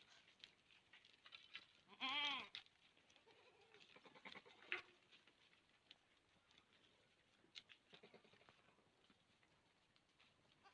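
Goat bleating: one loud, wavering bleat about two seconds in, followed by a fainter call a second later. Scattered faint clicks and rustles fill the rest.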